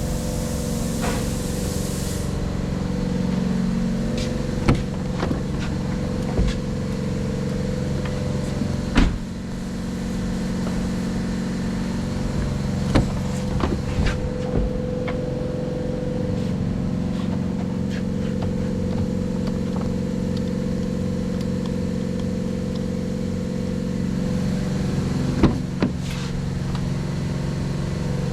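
Ford F-150's 3.5L V6 engine idling steadily, with a few sharp clicks.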